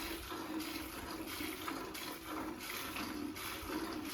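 Streams of milk squirting into a pail as a cow is milked by hand, a repeated liquid splashing. The cow is letting her milk down normally, not holding it back.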